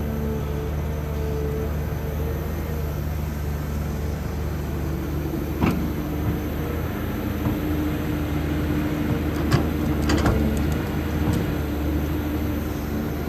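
Caterpillar 320D excavator's Cat ACERT diesel engine running steadily, with a few sharp clicks or knocks about six seconds and about ten seconds in.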